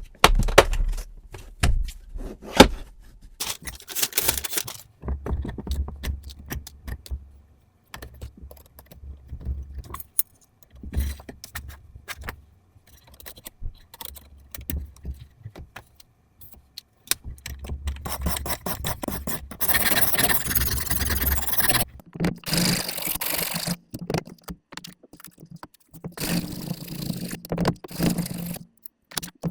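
Knife blade being sharpened on a guided fixed-angle sharpener: a whetstone scraping along the edge in repeated strokes, mixed with clicks and knocks from the tool being handled. The scraping comes in uneven spells and is longest and loudest in the second half.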